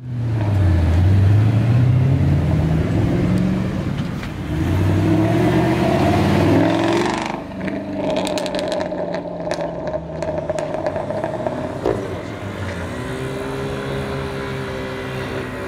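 Supercar engine accelerating hard in two rising runs of revs, then easing off about seven seconds in, followed by a scatter of short cracks and a steadier, lower engine note.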